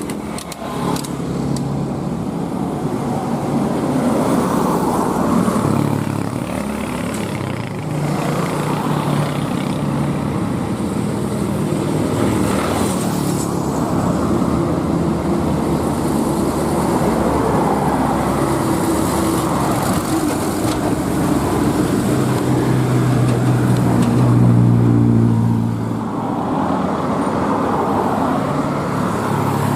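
Heavy truck engines running under load on a steep climb, amid road traffic noise. The engine note steps up and down in pitch several times.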